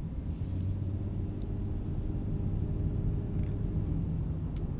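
Car driving: the steady low rumble of its engine and road noise.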